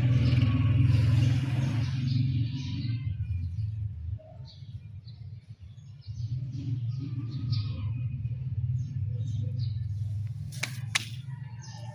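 Electric water pump motor humming steadily at a low pitch. It stops about four seconds in, starts again about two seconds later, and a few sharp clicks come near the end.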